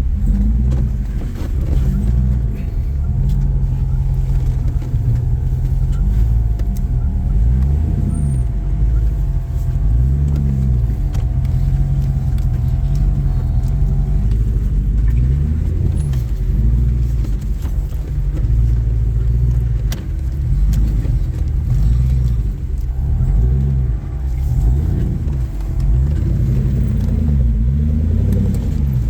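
Rock crawler's engine revving up and down over and over as it climbs slowly over rocks. A steady higher whine runs underneath for the first half.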